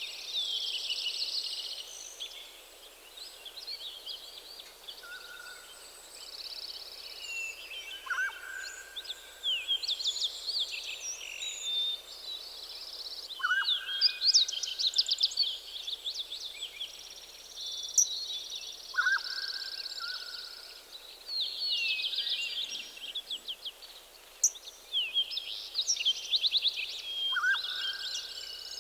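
Several songbirds singing together in a forest morning chorus: fast high trills and chirps overlapping throughout, and a lower short call, a quick drop and then a held note, that repeats every five seconds or so.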